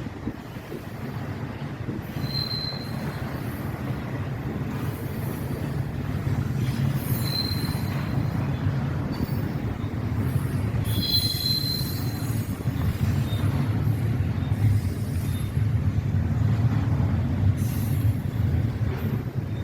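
Intermodal freight train rolling past with a steady low rumble of its cars, slightly louder toward the end. Brief high-pitched wheel squeals come three times: about two seconds in, near the middle, and a longer two-pitched one about eleven seconds in.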